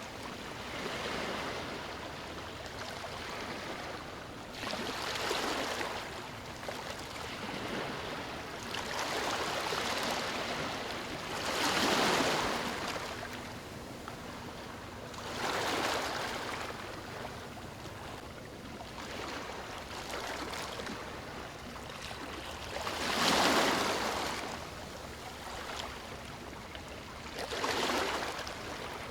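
Small ocean waves washing onto a beach: a steady hiss of water with a fresh rush every few seconds as each wave breaks and runs up, the biggest about a third of the way in and again about four-fifths in.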